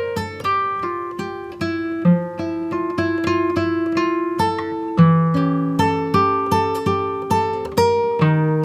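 Background music: acoustic guitar plucked in a steady rhythm, notes ringing out one after another.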